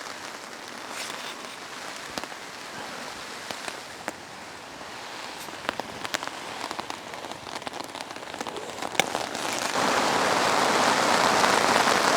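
Steady rain falling, with scattered sharp drops tapping close by. About ten seconds in the downpour suddenly grows heavier and denser.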